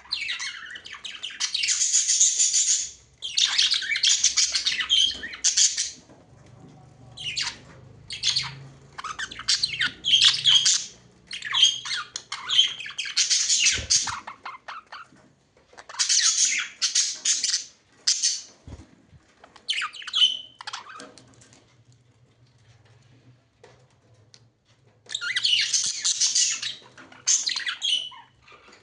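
Budgerigars chattering and squawking in bursts of a second or more, with a quieter stretch of a few seconds before the calling picks up again near the end.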